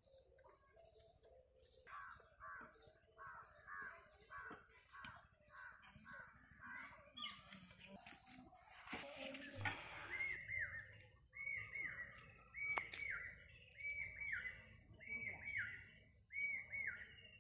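Birds calling: a quick run of repeated calls in the first half, then a short falling call repeated about once a second in the second half, with a brief noisy rush about halfway through.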